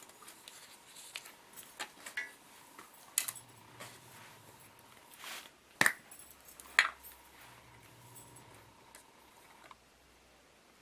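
Small handling sounds of craft materials on a table: scattered light clicks and taps, with two sharper knocks about six and seven seconds in, over a faint steady high hum.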